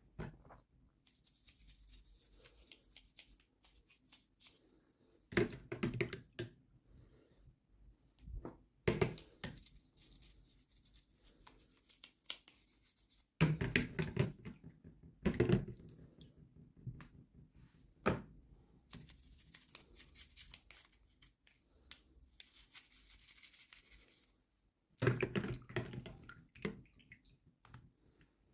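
Hands unwrapping and handling small toy packaging: rustling and tearing of wrapping in several stretches, among scattered knocks and taps of small plastic pieces.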